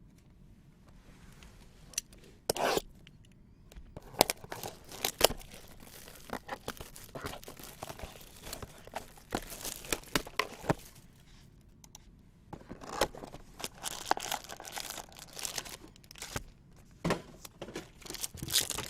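Trading card packaging being torn open and crinkled by hand: irregular rips and crackling, with a short pause about two-thirds of the way through.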